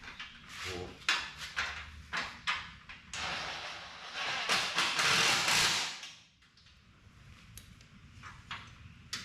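Several sharp clicks and knocks of parts and fasteners being handled, then a cordless drill running for about three seconds as it drives a bolt of a door valance.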